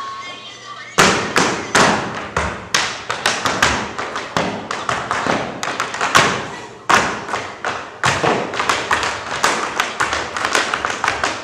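Tap dance on a stage: a fast, uneven run of sharp taps and heavier stomps from tap shoes on a wooden floor. It starts about a second in and breaks off briefly near the middle.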